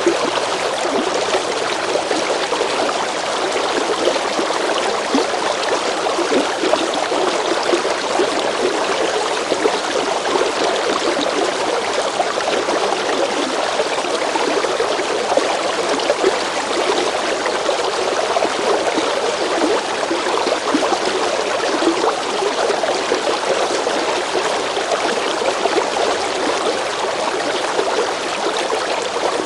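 River water running over stones, a steady rush with fine splashing and trickling texture.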